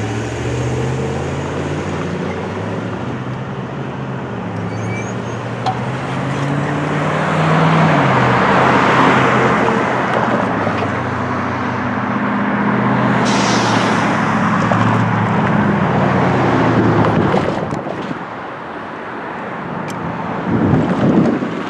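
Road traffic: cars and trucks driving past, their engines rising and falling in pitch, loudest about nine seconds in and again later.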